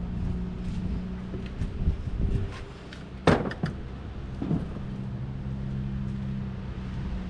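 Knocks and clatter of boxes and household items being moved and set down, with one loud knock about three seconds in, over a steady low hum.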